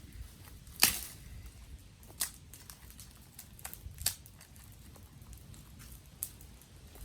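Dry sticks and twigs cracking: a few sharp, irregular snaps, the loudest about a second in, over a low background.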